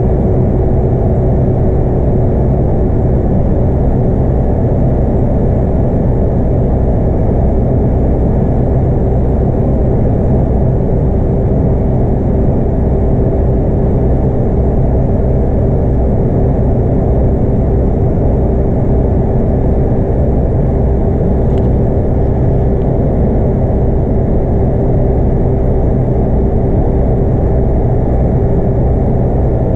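Scania K230UB bus's 8.9-litre five-cylinder DC9 diesel engine running at a steady speed with its ZF Ecomat automatic gearbox, heard from inside the bus with road rumble; pitch and loudness hold steady, with no gear change.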